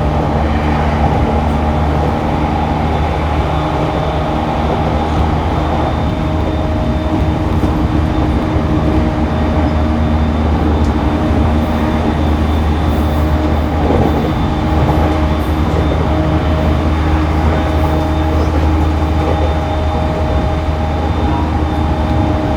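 Interior running sound of a JR East E231-1000 series (refurbished) commuter train travelling at steady speed: a continuous low rumble of wheels on the track with several steady whining tones from the running gear, holding even pitch.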